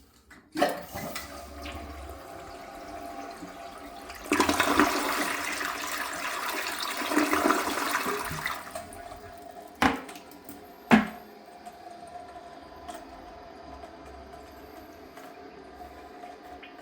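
DC-501 toilet being flushed: a loud rush of water for about four seconds, then two sharp knocks, then the tank refilling with a quieter steady hiss. The flush tests the newly installed toilet.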